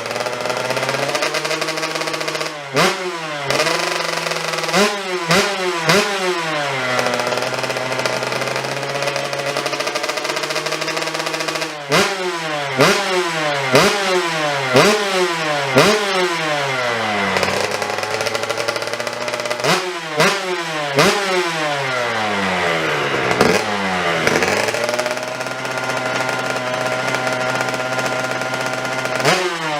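Yamaha YZ125 single-cylinder two-stroke motocross engine with an aftermarket exhaust, idling and blipped on the throttle in three runs of quick revs, each rev rising sharply and falling back to idle.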